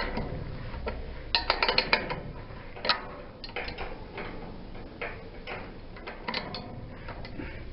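Spanner turning the adjusting nut on the threaded bolt of an up-and-over garage door's balance spring, metal clicking and clinking irregularly as it is repositioned on the nut. The nut is being wound up to put more tension on the spring, because the door is heavy to lift.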